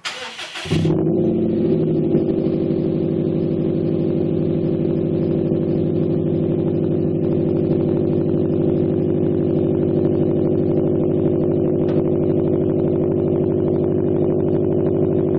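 2011 Subaru STI sedan's turbocharged 2.5-litre flat-four engine starting up: a short burst of cranking, then the engine catches under a second in. It settles into a loud, steady idle heard at the exhaust tips.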